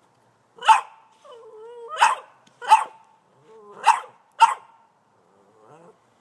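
A Boston Terrier barking: five sharp barks at an uneven pace, with a longer, lower sound leading into the second bark.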